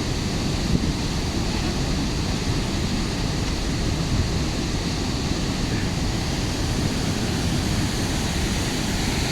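Thornton Force waterfall on the River Twiss: a steady, unbroken rush of falling water.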